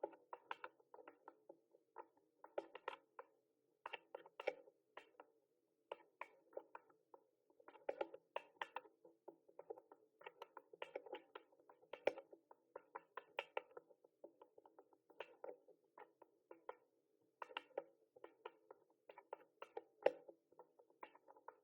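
Typing on a mechanical keyboard: quick irregular runs of sharp key clicks, broken by short pauses, over a faint steady hum.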